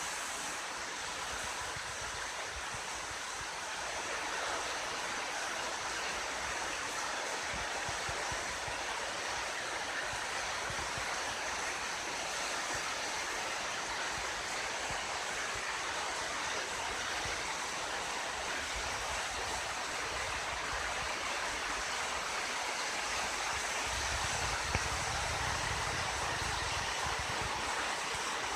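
Mountain river rushing steadily past an open-air hot-spring bath, a continuous even water noise. A low rumble comes and goes beneath it and is strongest near the end.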